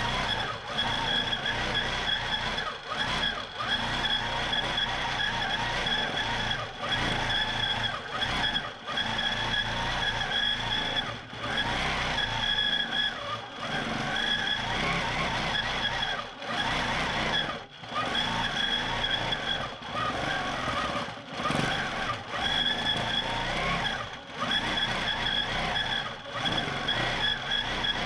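Q'nique 19 longarm quilting machine stitching in regulated mode: a steady motor-driven running with a constant high whine, dipping briefly every second or two. The quilter really doesn't like the sound of this regulated mode.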